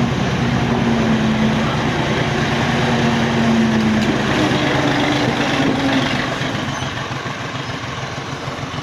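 Diesel tractor engine running under load while it reverses a loaded sand trolley. Its note rises a little about four seconds in, then the engine eases off and goes quieter about six seconds in.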